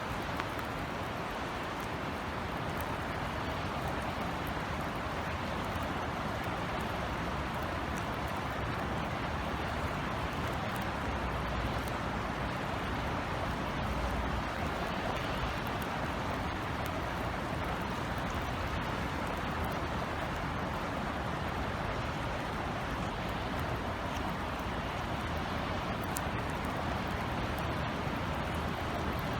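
Steady rain falling, an even hiss with scattered individual drops ticking through it and a low rumble underneath.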